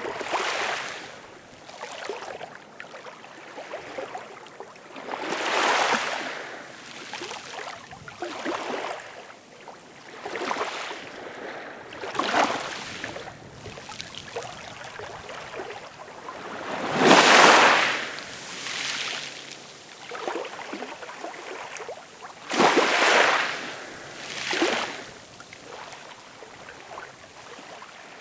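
Ocean waves breaking and washing up, coming in irregular surges every few seconds, the strongest a little past halfway.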